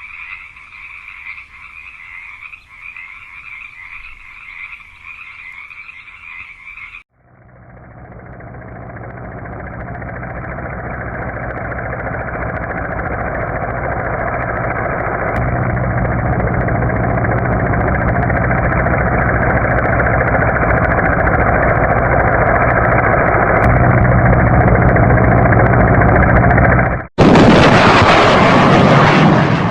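Frogs croaking in a chorus for about seven seconds. Then a vehicle's low, steady engine and road noise grows steadily louder for about twenty seconds, ending in a short, louder rush of noise.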